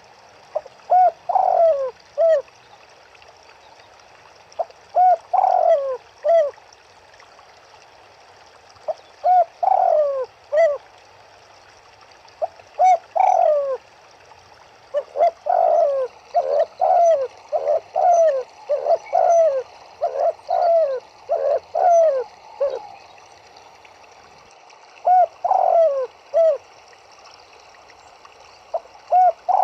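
Spotted doves cooing: repeated phrases of three or four short, low hooting notes, a few seconds apart, crowding together and overlapping through the middle as more than one bird calls.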